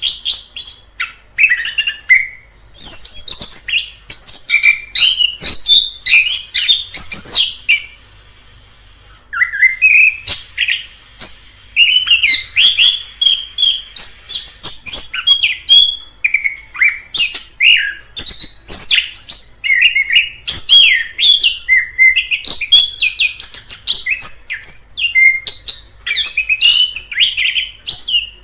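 Orange-headed thrush singing: a long, varied run of quick whistled and chirping phrases, with a short break about eight seconds in.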